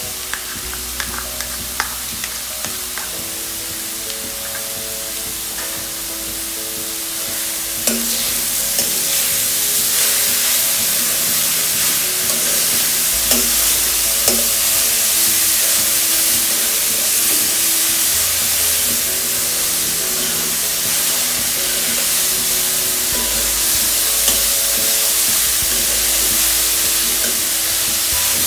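Grated carrots sizzling in hot ghee in a kadhai while a spoon stirs and scrapes them, with occasional sharp clicks of the spoon against the pan. The sizzle grows louder about a third of the way in. Background music with sustained notes plays underneath.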